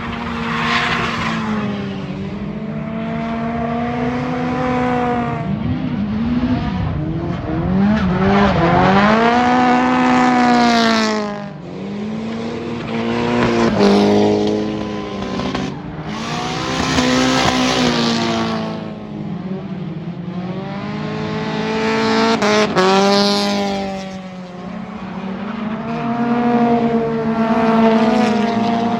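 Drift car engines revving hard, their pitch rising and falling over and over as they slide, with tyres squealing at each surge.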